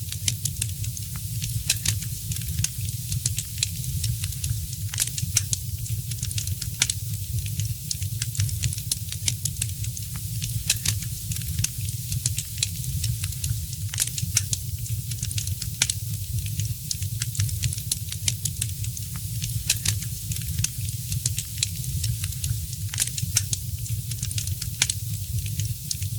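Wood fire crackling in a fireplace: frequent irregular sharp pops and snaps over a steady low rumble and a soft hiss.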